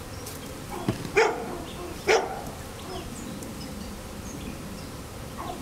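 Swarm of honey bees buzzing steadily around the hive box, with a dog barking twice, about one and two seconds in.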